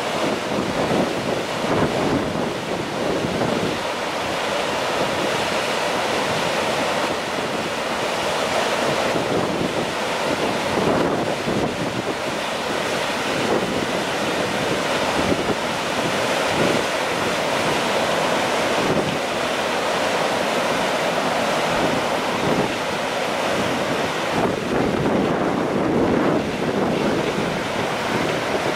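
Steady rushing of the flood-swollen Kizu River, with wind buffeting the microphone in uneven gusts.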